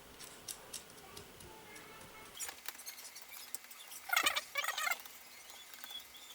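Hand ratchet clicking as Torx screws on a starter motor are turned: a few single clicks, then short runs of fast clicking about midway and around four seconds in.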